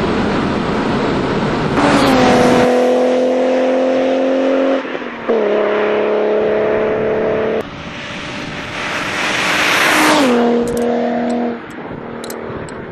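Alfa Romeo 75's V6 engine running hard at high revs, a strong steady note that breaks and steps down briefly a few times. Near the end the car passes, growing loudest and then dropping in pitch as it goes by.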